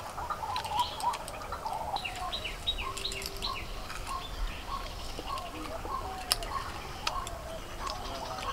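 Small birds chirping in a steady stream of short repeated notes, with higher falling chirps mixed in and a few sharp clicks.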